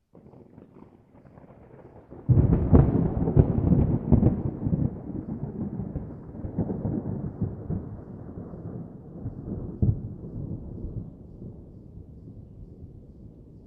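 A peal of thunder: a low rumble builds, breaks into a loud sharp crack about two seconds in, then rolls on with a few smaller cracks and slowly fades away.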